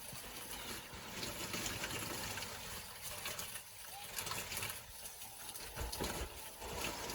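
Steady rain falling, a soft even hiss of drops with some trickling water.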